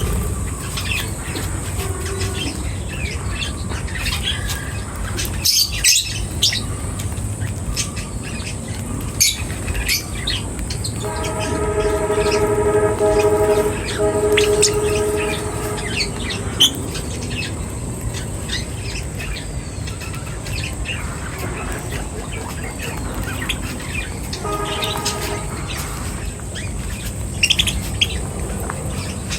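Birds chirping and tweeting in many short, high calls. About eleven seconds in, a steady pitched tone with several overtones is held for about four seconds, and it comes again briefly near the end.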